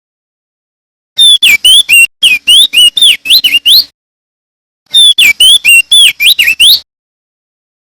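Male opior jambul singing: two loud phrases of quick, clear whistled notes, each note sliding down or up in pitch, the second phrase starting a little over a second after the first ends.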